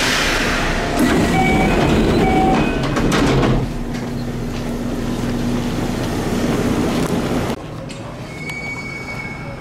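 Kintetsu commuter train at a station stop: the doors slide open in a loud rush of noise with a couple of short tones, then the car's steady hum carries on while passengers step off. The sound drops to a quieter level near the end.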